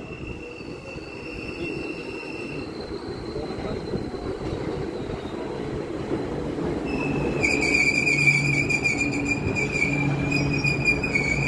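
JR 221 series electric train rolling into the station and braking to a stop. It rumbles steadily and grows louder, and from about seven seconds in a loud, high, steady squeal sets in as it slows.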